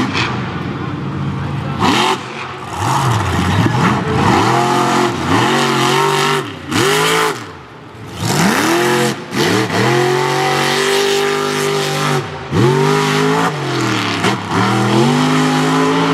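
Monster truck engine revving hard and falling back again and again, in about eight or nine surges, with a brief lull about eight seconds in.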